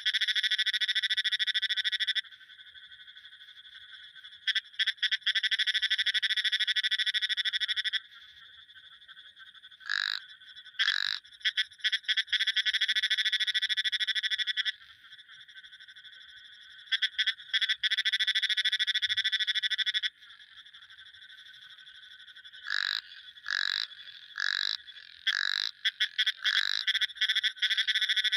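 Frogs calling: long, fast trills lasting a few seconds each, with several short single croaks in between, repeated about once a second in the last third. A faint steady high tone carries on in the gaps.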